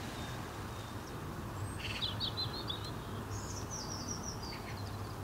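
A small bird chirping: a quick run of short chirps about two seconds in, then a higher twittering, over a steady low rumble of outdoor background noise.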